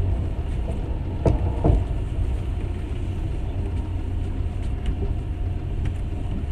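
Passenger train carriage running along the rails, heard from inside: a steady low rumble with two sharp knocks in quick succession about a second and a half in.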